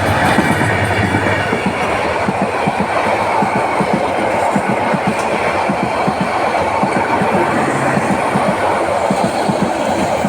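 Subarna Express passenger train running through a station at speed without stopping, its wheels clattering rapidly and steadily over the rail joints.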